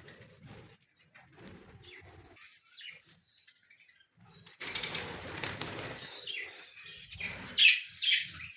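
A colony of budgerigars fluttering their wings and chirping; the flutter grows louder about halfway through, and two sharp, loud chirps come near the end.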